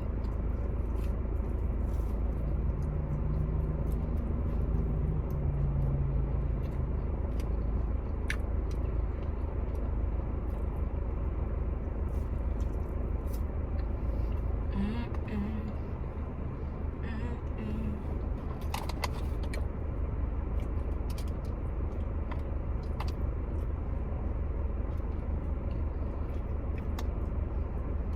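Steady low rumble of a car's interior, with scattered small clicks of eating.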